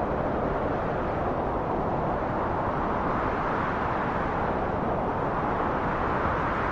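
Steady wind blowing: a continuous, even rushing noise, strongest in the low and middle range, with its pitch drifting gently up and down.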